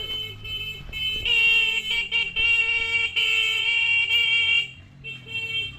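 Vehicle horn honking: a few short toots, then a long blast of about three seconds, then more short toots near the end. It is sounded to warn traffic coming up the narrow road.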